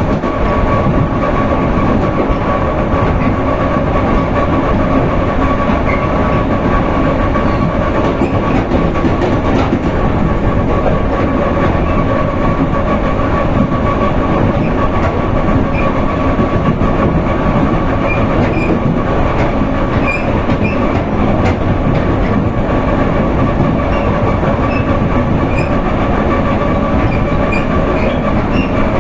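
Russian electric commuter train (elektrichka) running at speed, heard from inside the carriage by the window: a loud, steady rumble of wheels on rail with a steady whine held throughout.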